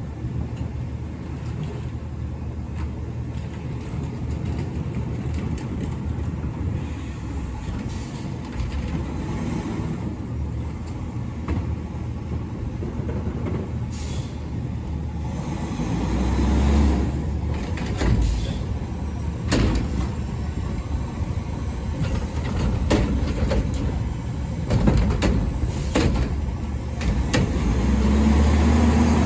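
Garbage truck's diesel engine running, revving up twice, with several sharp metallic clanks and knocks partway through.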